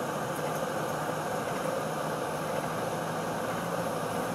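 Land Rover engine running steadily as it drives down a snowy hill, an even drone with a low hum, heard from inside the cab.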